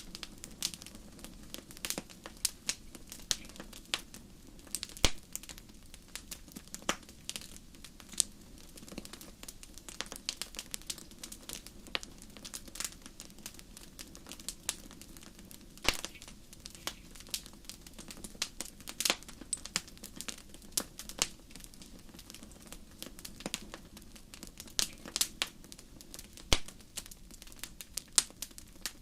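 Wood campfire crackling, with irregular sharp pops and snaps several times a second over a low steady rush of flame.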